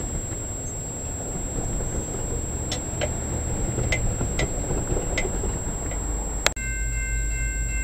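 A train moving off, a steady low rumble with occasional sharp clicks from its wheels. About six and a half seconds in the sound breaks off with a click and gives way to a different steady low hum with faint high tones.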